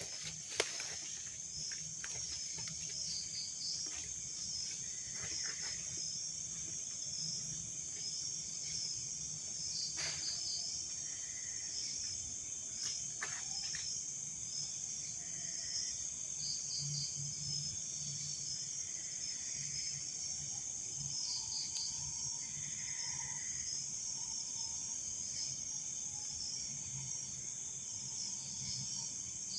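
Night insects, crickets among them, keeping up a steady high trill, with short chirps repeating every second or two over it. A single click sounds near the start.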